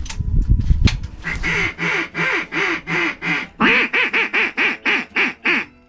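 Two runs of evenly spaced duck quacks, about three to four a second, the second run louder. A low rumble fills the first second.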